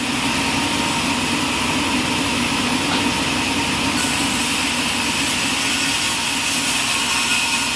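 Sawmill machinery running steadily: a continuous mechanical noise, with a slight change in its high-pitched part about four seconds in.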